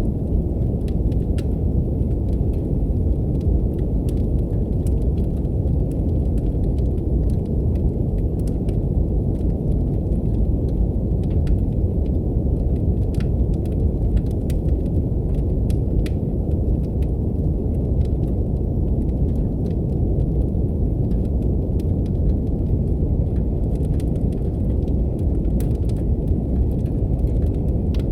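Steady deep brown noise, a low rushing hiss, with faint wood-fire crackles popping at irregular intervals over it.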